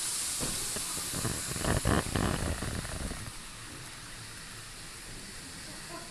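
N-gauge model train passing close by on the layout: a rattle of wheels and motor that rises, peaks about two seconds in and fades by about three seconds, over a steady hiss.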